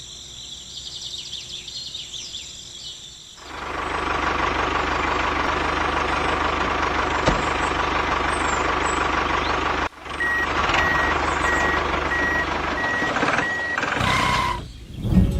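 A vehicle engine starts running about three seconds in and keeps a steady note. In the second half, a reversing-style beep repeats about twice a second for several seconds.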